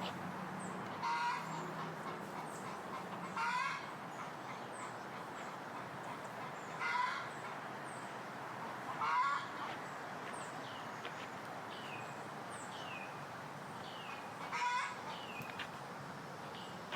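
A bird giving short honk-like calls, five in all at irregular intervals, with another bird's small falling chirps in between.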